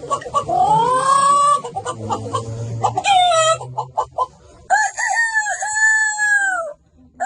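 A man imitating a chicken with his voice: a rising squawk, then a run of quick clucks, then a long, held cock-a-doodle-doo crow that drops in pitch at its end.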